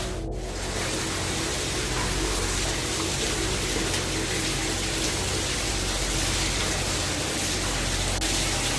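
Water pouring down hard into a flooded tunnel, a steady loud rushing.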